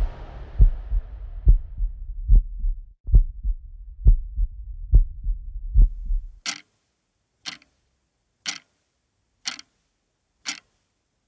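Heartbeat sound effect: low, even thumps a little under a second apart. About six and a half seconds in they stop, and a clock ticks sharply once a second, five ticks.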